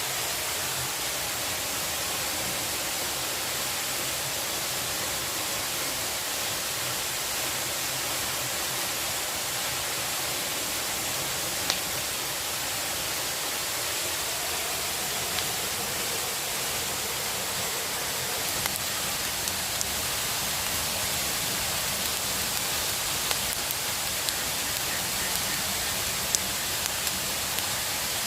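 Steady rushing water noise, with a few sharp ticks scattered through the second half.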